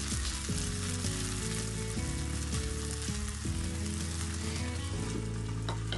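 Marinated chicken pieces sizzling steadily as they fry in a little oil in a nonstick pan, nearly cooked through.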